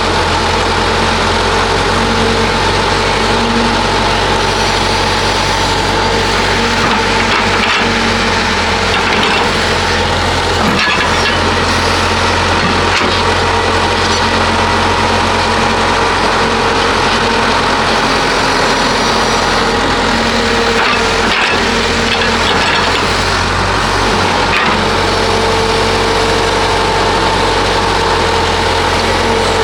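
Heavy construction machinery's diesel engine running steadily under load, with scattered cracking and scraping sounds from the material being worked.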